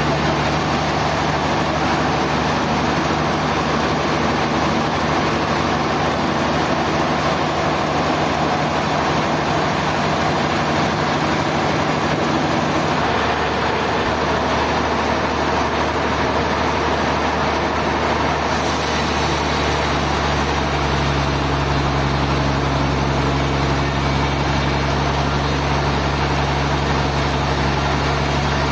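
Sawmill machinery running with a steady engine-like drone, shifting slightly in tone about halfway through and again about two-thirds of the way in.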